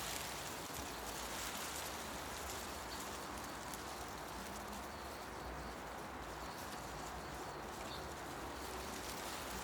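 Forest ambience: a steady hiss of wind through tree leaves, with faint bird calls over it.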